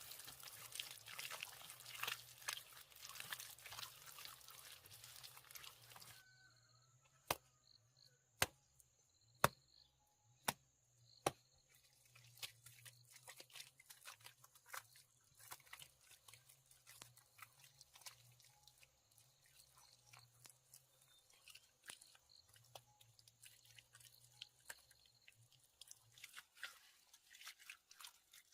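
Dense crunching and crackling for about six seconds, stopping abruptly. Then come five sharp knocks about a second apart, followed by scattered faint clicks.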